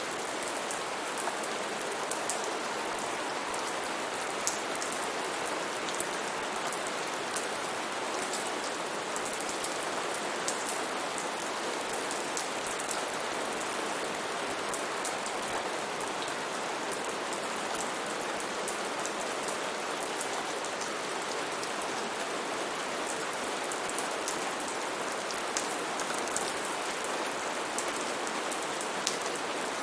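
Steady heavy rain falling on foliage and ground, an even hiss with many separate drop splashes and patters.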